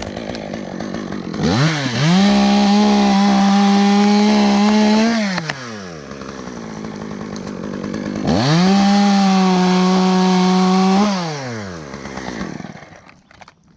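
Two-stroke chainsaw revved to full throttle twice, each time held steady for about three seconds before dropping back to idle.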